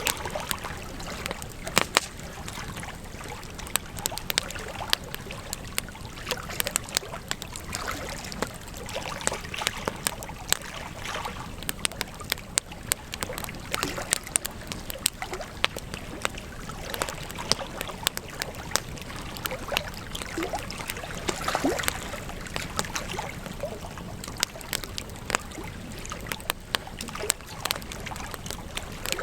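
Wood campfire burning, crackling with frequent sharp pops and snaps over a steady hiss of flame.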